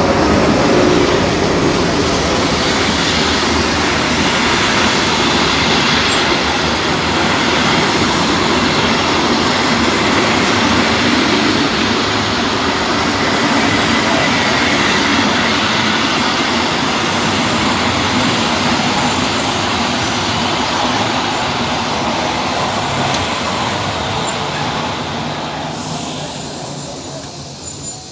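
A train passing through a station: a loud, steady noise of the rail cars running on the track that fades away over the last few seconds.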